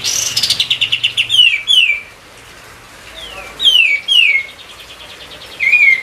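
Kapas tembak bird singing: a quick rattling trill that runs into loud, sharply falling whistled notes, mostly in pairs, then a fainter trill and one short note near the end.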